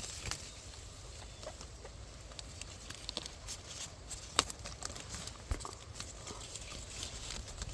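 Light rustling and scattered small clicks of leaves and twigs being handled at a fruit tree, with a sharper snap about four seconds in and another about a second later, over a low wind rumble.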